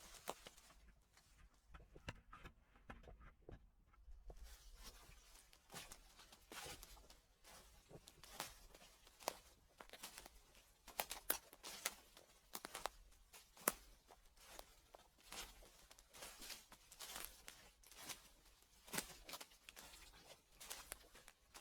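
Footsteps crunching and crackling through dry fallen leaves, faint. The crackles thin out briefly a second or so in, then come thick and irregular for the rest.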